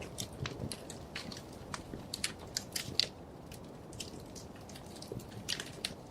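Wood fire crackling in a fireplace: irregular sharp pops and snaps over a low steady rush of the flames, with a louder pop about three seconds in.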